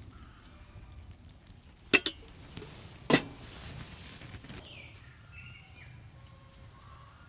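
Sharp knocks over a low, steady background noise: a doubled knock about two seconds in and a louder single one about a second later, followed by a brief hiss.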